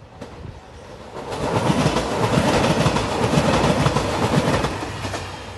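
JR Shikoku 2700 series diesel limited express train passing close by: engine and wheel noise build up and then fade, with a rhythmic clatter of the wheels over rail joints at the loudest part.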